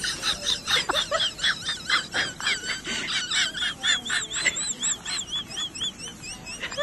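A small bird twittering, a quick string of high chirps that settles into an even run of rising-and-falling chirps, about five a second, in the second half.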